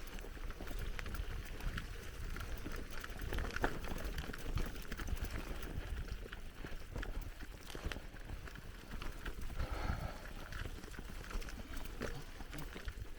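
Bicycle rolling along a forest track: the tyres crunch over the dirt and the bike rattles in a dense run of small clicks, over a steady low rumble of wind on the microphone.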